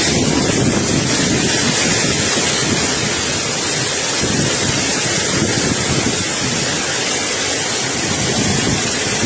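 Strong wind blowing hard and buffeting the microphone: a steady, loud rush of noise.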